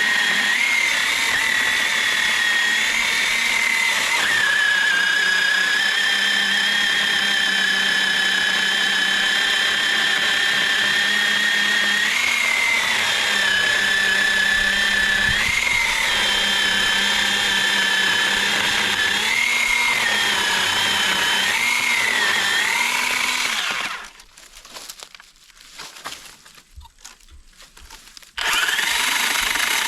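Cordless electric chainsaw, powered by two 20-volt batteries, running with a steady high whine while cutting into a log. Its pitch rises briefly several times. It cuts off suddenly about three-quarters of the way through and starts up again a few seconds later.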